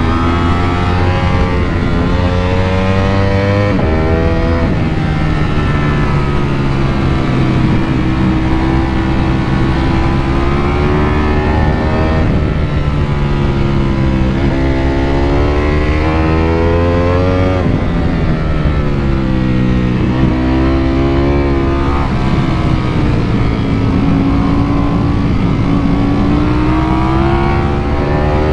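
Ducati Panigale V4 motorcycle engine revving through the gears on a canyon road: its pitch climbs under acceleration again and again, then falls back, sometimes suddenly, as the bike slows or changes gear.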